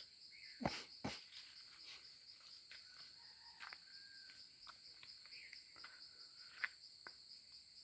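Steady, high-pitched insect chorus of crickets. A couple of soft clicks come about a second in, with a few faint short chirps later on.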